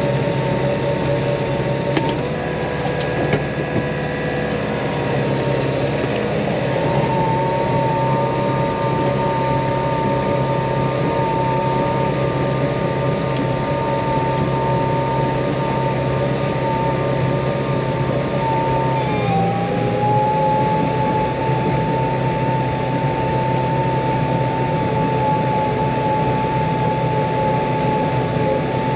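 Tractor engine running steadily while spreading muck, with a strong high whine over it that steps in pitch a few times and dips briefly about two-thirds of the way through.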